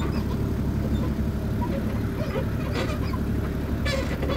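An engine running steadily at a low, even drone, with two short, sharp sounds about three and four seconds in.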